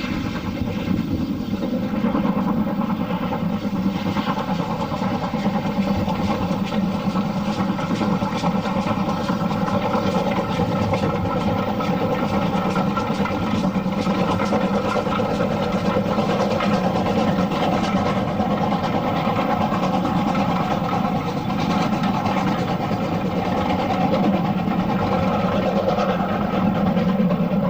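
An engine running steadily: a constant drone with several steady tones, no change in speed.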